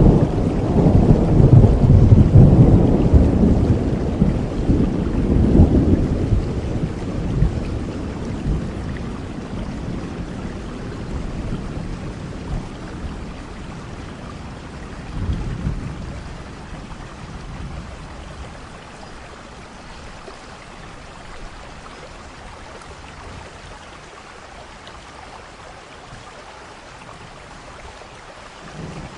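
Thunderstorm: a long roll of thunder, loudest in the first few seconds, rumbles and dies away over about fifteen seconds with a smaller rumble about halfway, leaving steady rain; another rumble begins right at the end.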